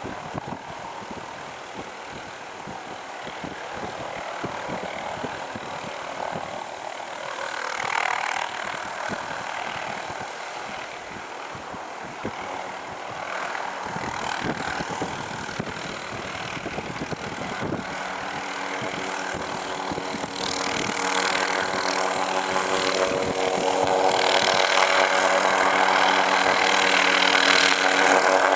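Helicopter flying nearer, its engine and rotor noise growing steadily louder. About two-thirds of the way through, a steady drone of several even tones comes in and stays.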